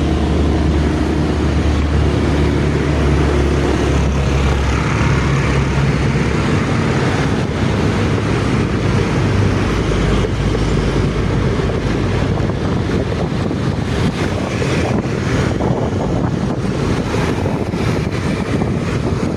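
Motor vehicle engine running with a steady low hum for about the first five seconds, then continuous rushing road and wind noise.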